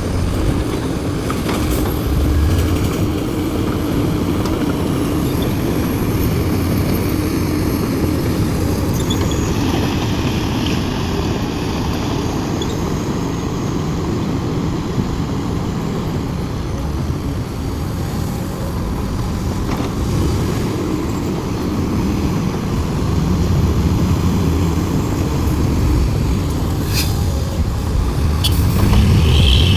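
Large hydraulic excavator's diesel engine running under working load, steady with a low drone that swells in the last few seconds, with a few sharp clanks near the end.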